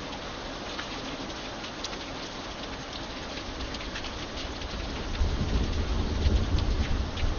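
Steady rain, with scattered individual drops ticking through the hiss. A low rumble of thunder swells up from about five seconds in.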